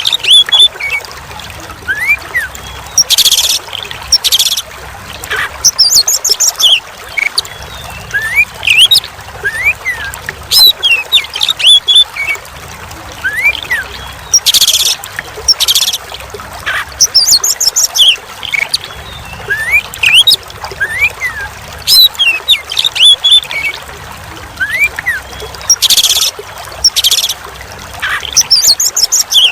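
Oriental magpie-robin (kacer) singing: short rising whistles and bursts of high twittering, with a louder phrase recurring about every eleven seconds, over a steady trickle of running water.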